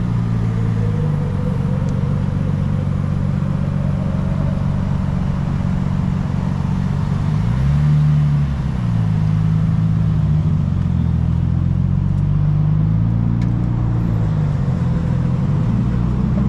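A car engine running steadily with small changes in pitch, and one brief rev about halfway through.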